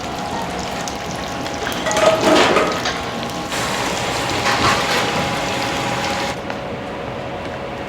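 Water running and splashing in a restaurant kitchen, over a steady hum of kitchen equipment; the hiss thins out about six seconds in.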